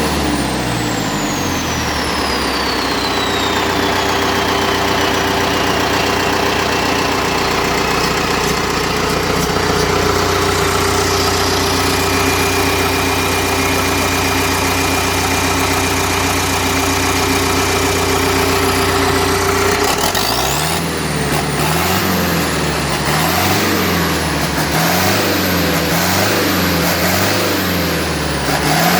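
Deutz BF4L913 air-cooled, turbocharged four-cylinder diesel running at a steady speed, with a high whine falling away over the first few seconds. About two-thirds of the way through it starts being revved up and down over and over, about once a second.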